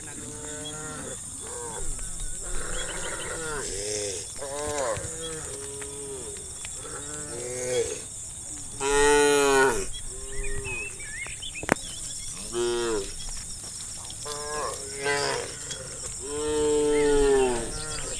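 A herd of cattle mooing over and over, many calls overlapping, each rising and then falling in pitch. The loudest moos come about nine seconds in and near the end, with a single sharp click in between.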